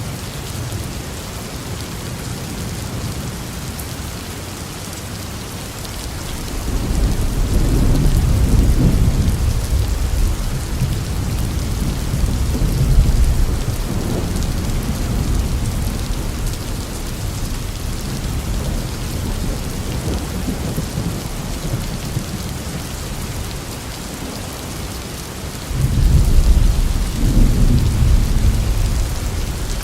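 Steady rain falling, with two rolls of thunder: a long deep rumble from about a quarter of the way in, and another that starts suddenly near the end.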